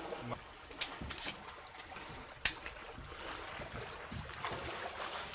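Water sloshing and splashing as a retriever works through the water, with three sharp clicks in the first half.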